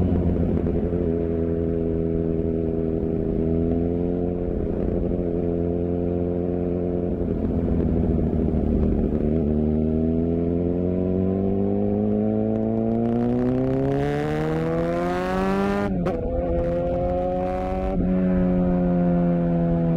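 Suzuki GSX-R750's inline-four engine and exhaust under way, holding a steady note for about nine seconds. The pitch then rises in one long climb as it accelerates, and near the end it drops sharply twice, about two seconds apart, as it shifts up through the gears.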